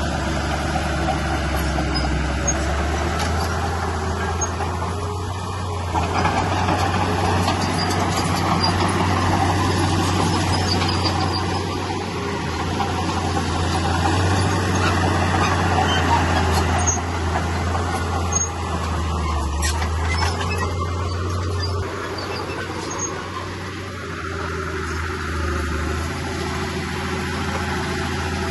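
Heavy diesel earthmoving machinery running under load, a steady low engine drone with a rattling, noisy working sound over it and faint high squeaks and clicks. The level rises a little several seconds in and eases back near the end.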